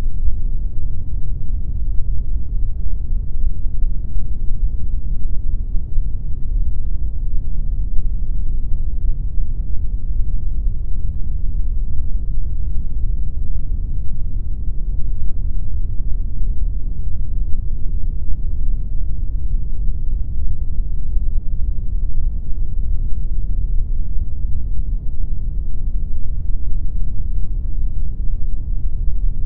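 Steady generated pink noise: an even, unchanging deep rush with most of its weight in the low end and little top.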